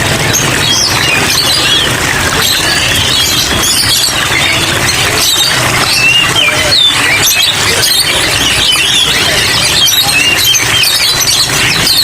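Many caged songbirds chirping and twittering at once, a dense, continuous tangle of short high calls over a steady low hum.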